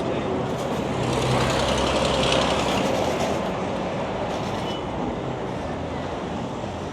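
City street traffic noise with a large vehicle passing: a low engine rumble and tyre noise swell about two seconds in and then fade.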